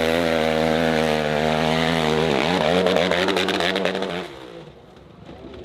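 Dirt bike engine running hard at high revs on a hill climb; the revs dip sharply a little over two seconds in and pick up again, then the engine sound cuts off suddenly about four seconds in.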